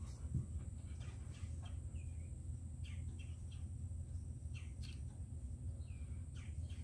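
Birds chirping faintly in the background over a steady low hum. A few light clicks come from plastic RC axle parts being handled.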